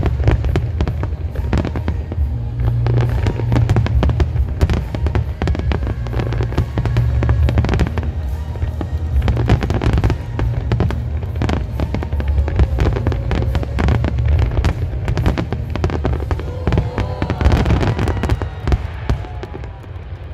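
Aerial firework shells bursting in a rapid, dense barrage: a continuous low rumble of booms with sharp bangs and crackles packed closely together, easing slightly near the end.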